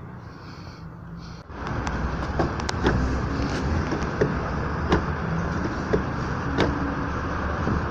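Car interior noise: a steady low rumble that jumps louder about a second and a half in, with light knocks repeating roughly every half second or so.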